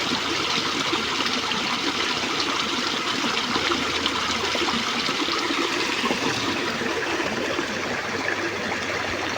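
Steady rush of running water, an even trickling flow.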